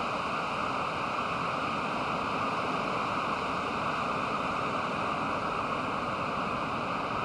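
Pacific Ocean surf breaking on a sandy beach, heard as a steady, unbroken roar with no single wave standing out.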